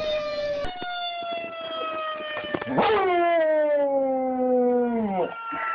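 Dogs howling in long drawn-out notes that slide slowly down in pitch, a second dog joining with a quick upward swoop about three seconds in, both howls trailing off shortly before the end and another starting. Howling along with an ambulance siren.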